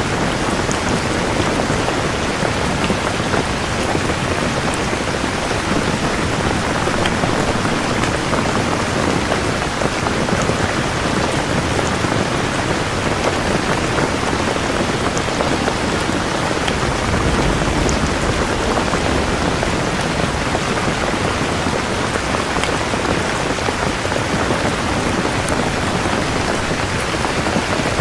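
Steady heavy rain pouring down, with a low rumble of distant thunder a little past the middle.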